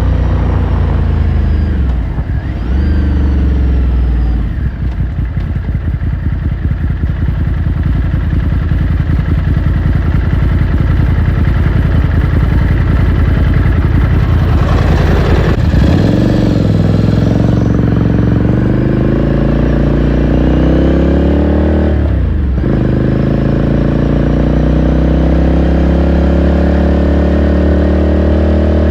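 Ducati Scrambler Sixty2's air-cooled 399 cc L-twin engine and exhaust under way, heard from the bike. It runs steadily for a while, then shifts gear about halfway through, rises in revs, shifts again about 22 seconds in and climbs once more.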